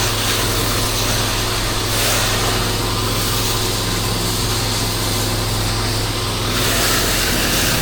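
Pressure-washing rig's engine running steadily with the hiss of water spraying; the hiss eases about six and a half seconds in.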